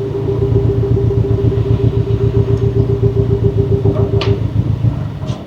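Porsche 718 Cayman's turbocharged flat-four engine running with a fast, even pulsing note and a steady tone over it, heard through a RaggDoll Motorsports turbo inlet pipe. About four seconds in the tone stops and there is a short hiss, and the engine sound falls away right at the end.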